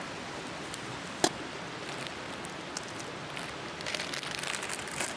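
Steady background hiss with a single sharp click just over a second in. From about four seconds in comes a run of quick crinkling, a plastic instant-ramen packet being handled.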